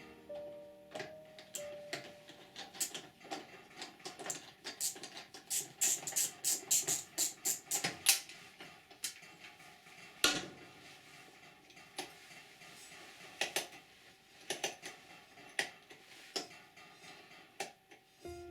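Light clicks, taps and clatter of small hard parts being handled. A dense run of quick clicks comes around six to eight seconds in, then scattered taps.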